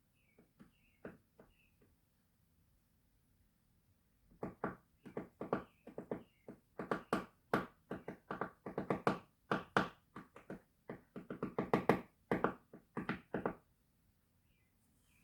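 Woodpecker pecking at wood: a long irregular series of sharp knocks, roughly three a second, starting about four seconds in and stopping shortly before the end, after a few faint high chirps.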